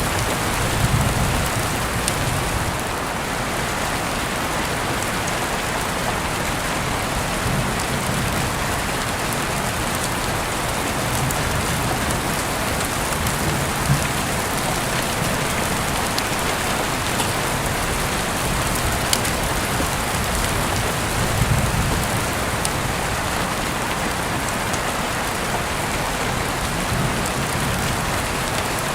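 Steady rain falling, an even hiss with a few sharp clicks scattered through it. Soft low rumbles swell and fade several times.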